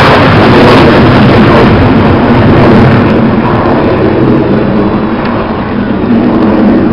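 Very loud jet noise from a Panavia Tornado GR4's twin RB199 turbofans as the jet flies past, a dense, steady roar that eases slightly after about five seconds.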